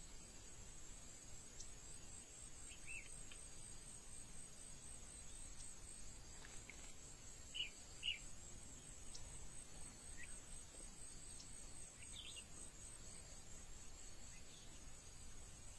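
Faint, steady high-pitched insect chirring, like crickets, with a few short bird chirps scattered through it, the loudest pair about eight seconds in.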